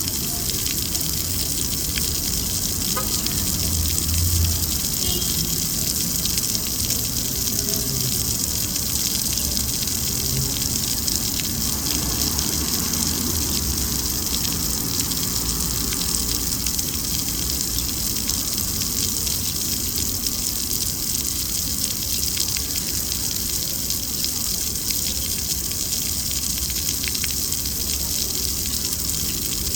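Steady city street ambience: a constant rushing hiss over a low traffic rumble that swells and fades as vehicles pass.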